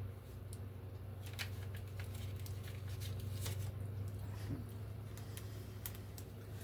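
Hands at work on paper: scattered soft scrapes, rustles and light taps of paper and art tools, heard over a steady low hum.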